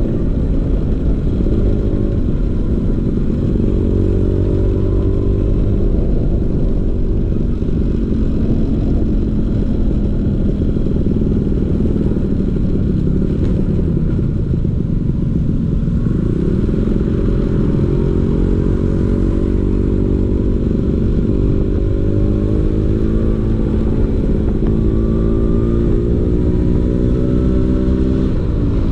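Vespa PX 150's two-stroke single-cylinder engine running through a DRC Victory racing exhaust. The pitch dips about halfway, then climbs steadily through the second half as the scooter accelerates.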